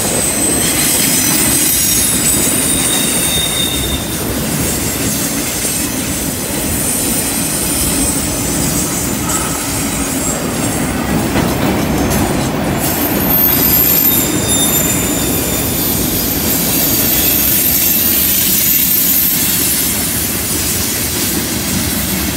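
Freight cars rolling past on a curve: a steady rumble of steel wheels on rail, with thin high-pitched wheel squeals that come and go through the passage.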